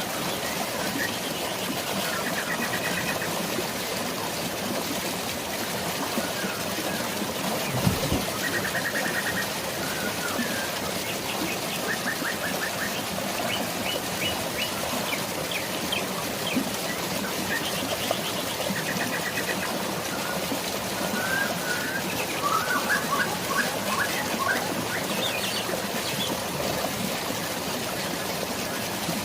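Steady rush of flowing water and rain, with forest birds chirping and giving short rapid trills on and off throughout. A brief low thump about eight seconds in.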